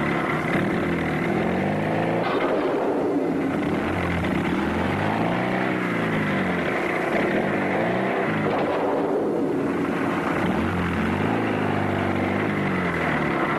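Car engine revving up and falling back again and again, its pitch rising and dropping every few seconds over a steady rushing noise.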